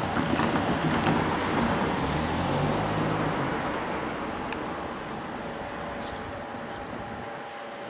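A passing train's rumble at a level crossing, loud at first and then fading steadily as it moves away, with a low hum midway and a single sharp click near the middle.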